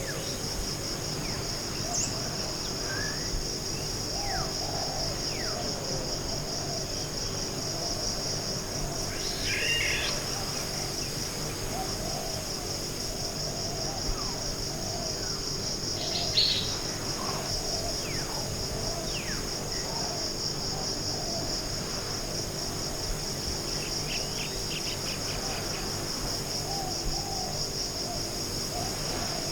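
Tropical forest ambience: a steady high-pitched insect trill throughout, with scattered bird calls over it, the louder ones about ten and sixteen seconds in.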